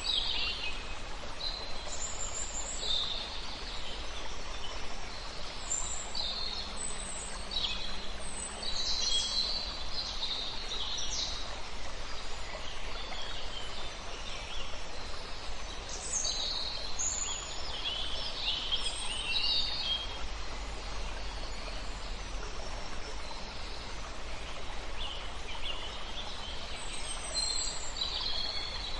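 Several songbirds chirping and trilling in bouts, over a steady low rush of a river.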